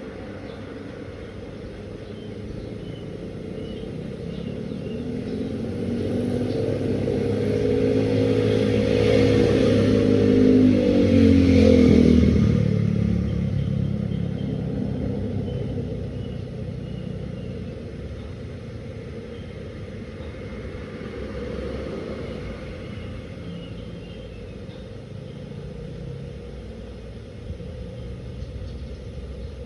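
A motor vehicle passes by. Its engine grows louder for several seconds, peaks about twelve seconds in with its pitch dropping as it goes past, then fades away.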